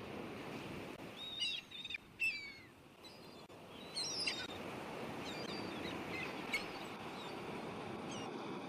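Seagulls calling in a few short clusters of sliding, mostly falling cries over a steady rushing background.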